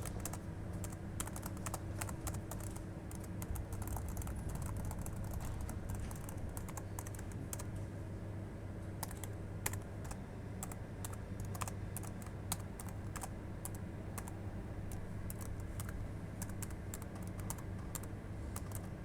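Typing on a computer keyboard: irregular, rapid key clicks that go on throughout, over a steady low hum.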